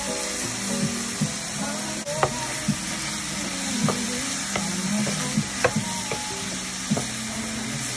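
Food sizzling and frying in a pan, a steady hiss, with about ten sharp clicks of a utensil against the pan as it is stirred. Faint background music underneath.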